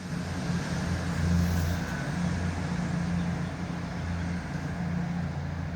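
A diesel train engine drones steadily at a low pitch over a background hiss.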